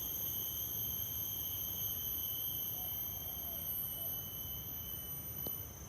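Chorus of cicadas: a steady, unbroken high-pitched drone on several pitches at once.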